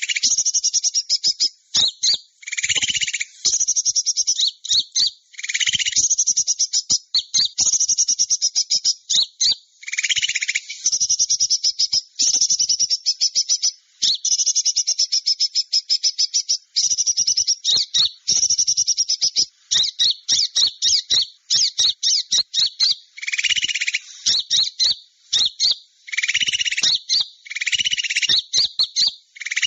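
Small-bird lure call (suara pikat): dense runs of rapid, high twittering chirps, broken by short gaps, with a fuller, lower call note every few seconds.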